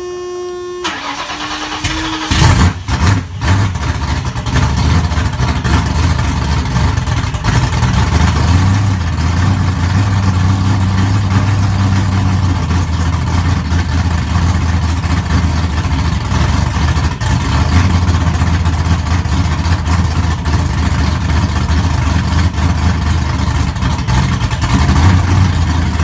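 Supercharged stroker Mustang V8 on a cold start. A steady whine lasts for about two seconds as it cranks. The engine then catches, flares with a few sharp bursts, and settles into a loud, steady cold idle that swells slightly now and then.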